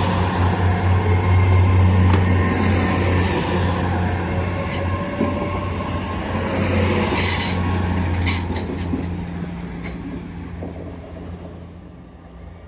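Train running on the track and moving away, its steady low drone fading over the last few seconds. Wheels click over rail joints, and there is a brief high wheel squeal about seven seconds in.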